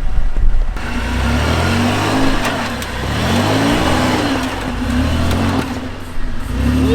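An off-road 4x4's engine revving, its pitch rising and falling several times, with a brief loud rush of noise at the start.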